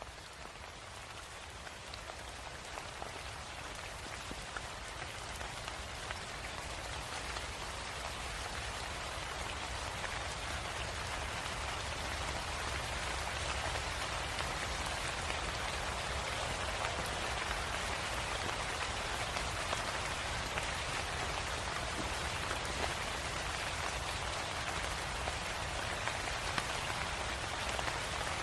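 Steady rain falling on a surface, a continuous hiss of many fine drops with scattered individual drop ticks. It builds gradually over the first ten seconds or so, then holds steady.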